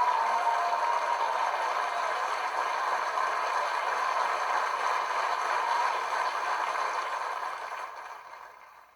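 Audience applauding, with a little cheering near the start, then fading out over the last second or so.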